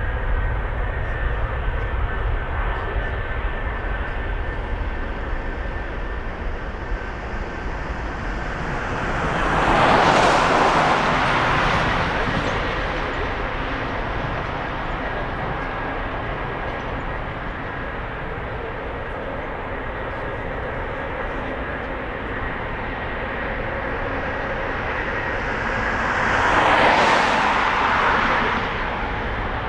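Jet airliner engines running in a steady drone with a few steady whining tones during takeoff. Two vehicles pass close, each a brief rising-then-falling swell, about 10 s and 27 s in; these are the loudest moments.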